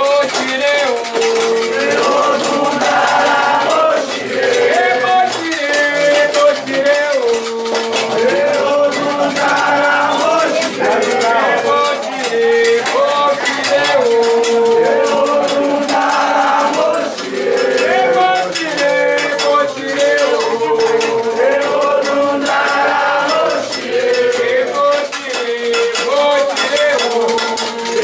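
Ritual Candomblé chant sung by voices with long held and sliding notes, over a fast, continuous beat of metal bell strikes from an agogô, with rattling percussion.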